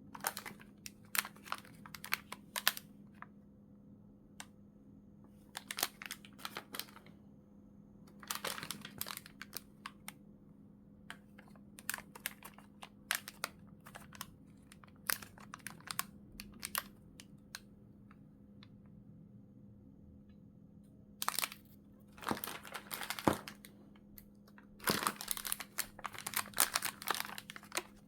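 Plastic packaging crinkling and crackling in hands, in several bursts with short pauses between, over a faint steady hum.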